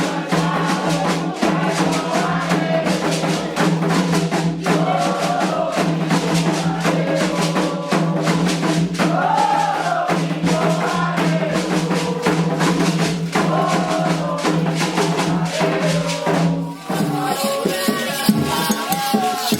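Candomblé xirê music: a sung chant carried over drums and hand percussion at a steady beat. About 17 s in the music dips briefly and carries on in a sparser pattern.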